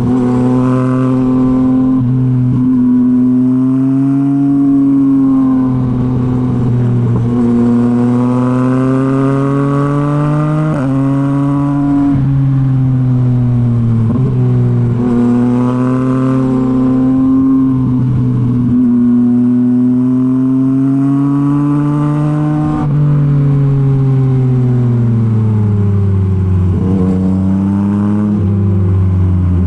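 Yamaha MT-09's three-cylinder engine through a Revoc SP full exhaust system, riding on the road. The pitch climbs and drops sharply several times as the rider shifts up through the gears, then falls steadily near the end as the bike slows down.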